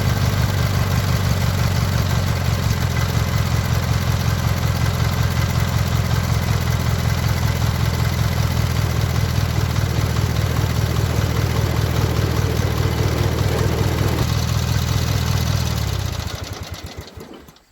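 Small lawn tractor engine idling steadily with an even, rapid pulse, then dying away over the last second and a half as it is shut off.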